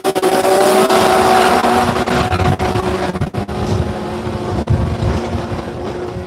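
A drag car launching and accelerating away down the strip after a burnout: its engine note climbs through the revs, then fades steadily as the car pulls into the distance.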